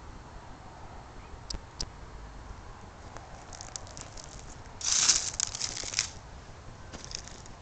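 An animal grazing: crisp tearing and crunching of grass, with a few sharp clicks early on and the loudest burst of tearing about five seconds in.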